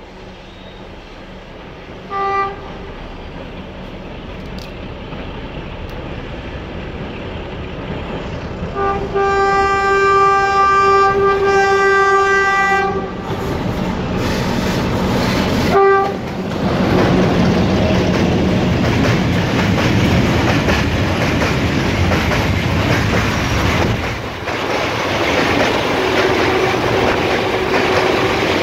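Heavy diesel-hauled freight train approaching out of a tunnel, its rumble growing steadily louder. The locomotive's horn gives a short blast about two seconds in, a long blast of about four seconds around the ten-second mark, and another short blast near sixteen seconds. The locomotive then passes close and the loaded bulk wagons roll by loudly on the rails.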